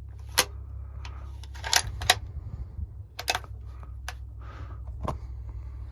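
A vehicle's engine running with a steady low rumble, with a series of sharp clicks and clacks over it, the loudest a pair about two seconds in.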